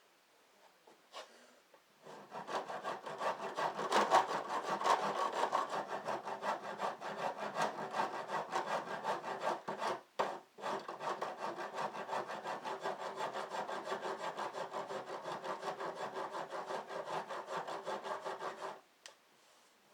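Hand rasp filing the cut end of a wooden garage door: quick, even back-and-forth strokes, about four a second. They start about two seconds in, break briefly near the middle and stop about a second before the end.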